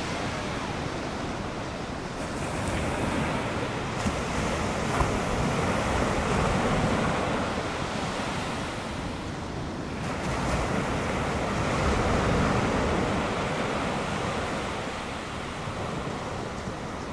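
Ocean surf: waves breaking and washing in, the rush swelling and fading in slow surges, with some wind on the microphone.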